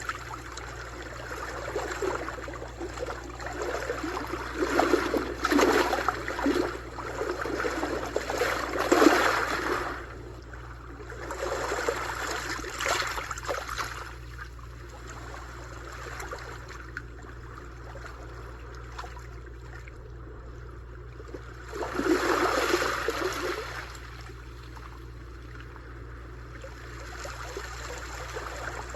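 Sea waves washing in and breaking: a long stretch of churning surf that ends about ten seconds in, a smaller swell a few seconds later, then a calmer spell until another wave breaks a little past twenty seconds.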